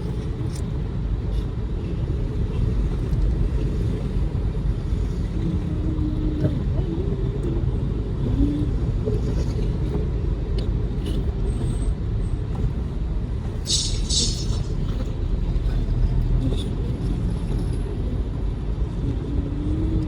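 Steady low rumble of a car's engine and tyres, heard from inside the cabin while driving. A brief hiss comes about fourteen seconds in.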